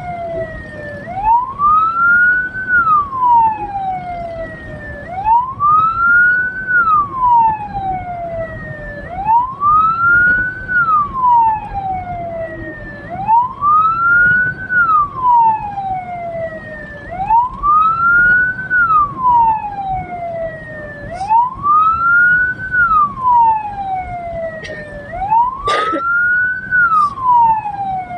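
Hearse siren wailing in slow cycles: each rises over about a second and a half, then falls more slowly, repeating about every four seconds over steady road noise. A short sharp click near the end.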